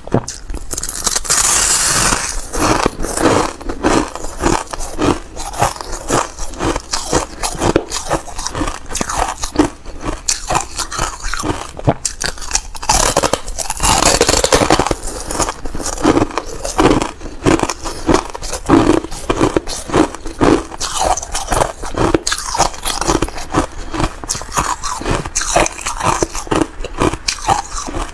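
Thin ice being bitten and chewed close to the microphone: a continuous run of rapid crunching and crackling, with louder bites near the start and again about halfway through.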